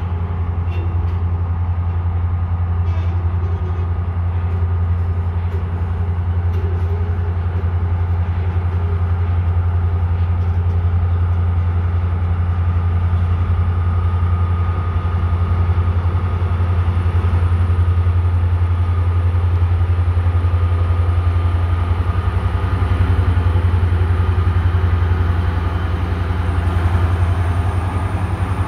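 A train rumbling with a steady low drone that holds at an even level, with a faint higher whine over it.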